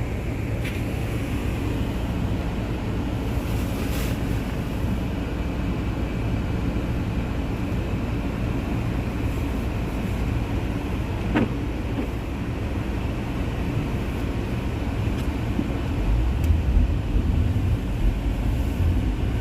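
Car driving on a snowy road: a steady low rumble of engine and tyres, which grows louder about three seconds before the end.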